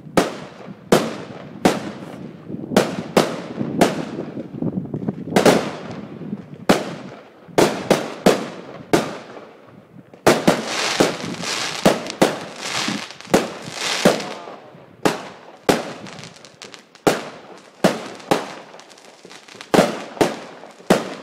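Aerial fireworks going off in a rapid run of sharp bangs, about one or two a second, each with a fading echo. About halfway through there are a few seconds of dense crackling between the bangs.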